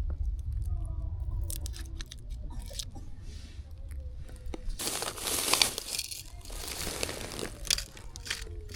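Crinkling and rustling handling noise with scattered clicks, thickest for a couple of seconds from about five seconds in, over a low rumble in the first half.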